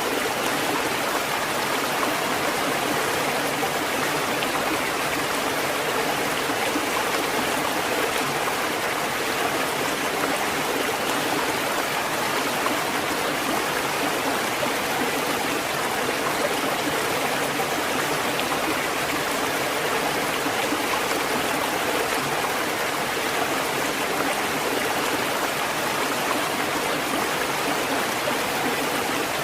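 Steady rushing of water, an even noise that holds at the same level throughout without swelling and falling back.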